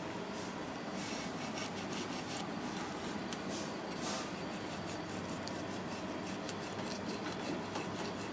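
Kitchen work: many small clicks and scraping sounds, as of utensils being handled, over a steady background noise.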